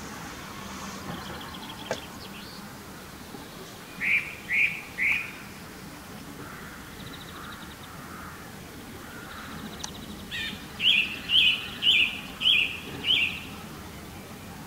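A songbird calling: three short, loud repeated notes about four seconds in, then a run of five more near the end, about two a second. Fainter calls and trills sound in between.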